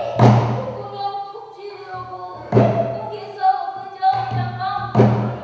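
Pansori singing: a solo voice holding and bending long sung notes, accompanied by a barrel drum (buk) struck three times at a slow, even pace.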